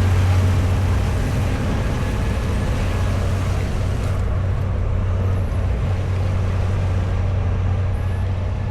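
A large engine running steadily with a low, constant drone.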